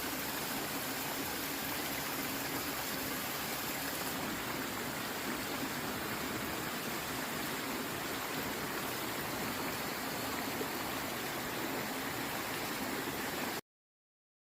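Mountain valley stream flowing steadily. The sound cuts off suddenly near the end.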